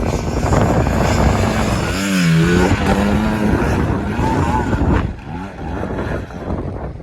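Motocross bike engine revving hard, its pitch rising and falling about two seconds in, then dropping back in level near the end, with wind buffeting the microphone.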